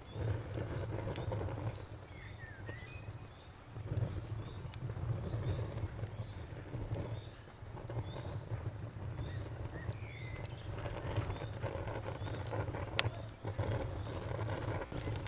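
Campfire crackling, with a few sharp pops over a low rumble that swells and fades. Behind it, a steady high insect chirping repeats about four to five times a second, and a short bird-like chirp comes twice.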